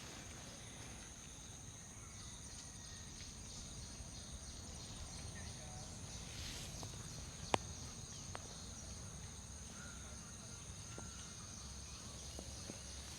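Steady high-pitched chirring of crickets or other insects, with a few sharp clicks, one clearly louder about seven and a half seconds in.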